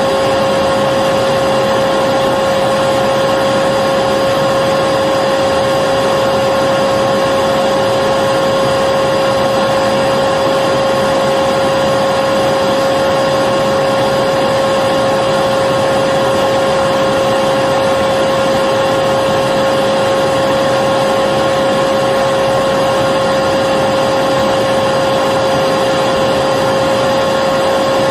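Vacuum cleaner motor running continuously at a constant speed: an even rushing hiss with a steady whine.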